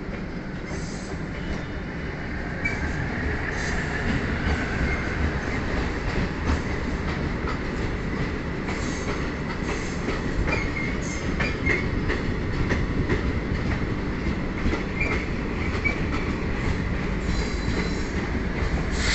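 Passenger train passing along the line: a steady rumble of wheels on rail that slowly grows louder, with scattered clicks from the rail joints and brief high-pitched wheel squeals.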